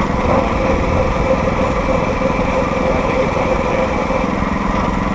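Small gasoline engine of a homemade motorised rail cart running steadily under way.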